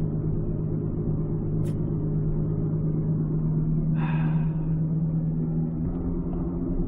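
Inside a moving 2006 Ford Escape Hybrid: a steady low hum over the road noise, easing slightly near the end. This is the humming noise that a wheel-bearing swap has not cured; the owner now says it is not a wheel bearing and wonders about a carrier bearing.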